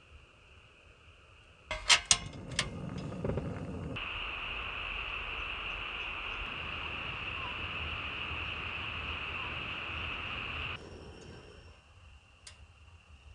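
A few sharp clicks and knocks, then a steady hiss that runs for about seven seconds and cuts off suddenly. A faint high-pitched steady tone, like insects, sits underneath throughout.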